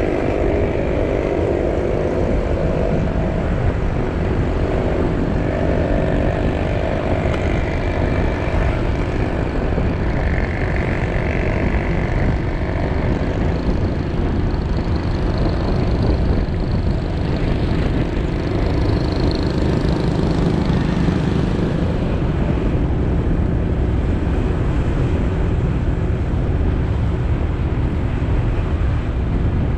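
Motorcycle engine running steadily while riding, under a constant low rumble of road noise. Its pitched drone is clearest in the first half and fades into the rumble about halfway through.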